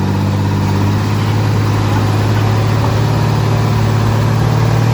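Heavy diesel engine of earthmoving machinery running steadily at a constant pitch.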